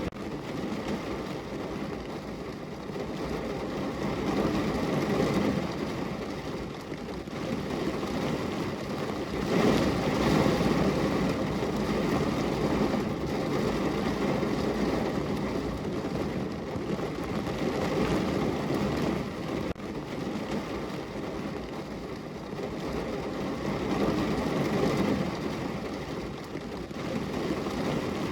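Heavy rain falling on a car's roof and body, heard from inside the car: a dense, even patter that swells and eases every few seconds.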